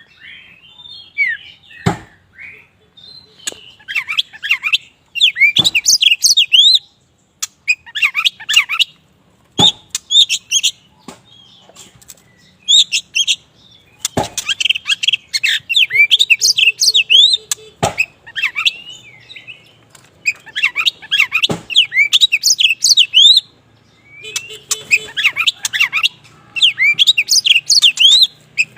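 A black Oriental magpie-robin (kacer wulung) singing vigorously. Its song comes in rapid bursts of high, sliding whistled and chattering notes, one to two seconds long, with short pauses between them. A sharp click sounds about every four seconds.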